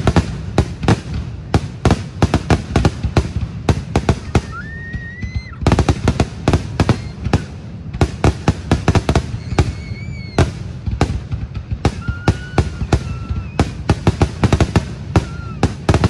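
Fireworks going off in a dense barrage of bangs, several a second without a break, with a few whistling tones rising and bending above them.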